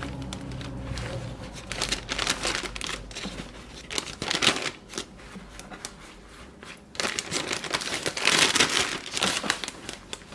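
Plastic sealable bag crinkling and rustling as raw bone-in chicken thighs are handled into it, in uneven bursts that grow louder near the end.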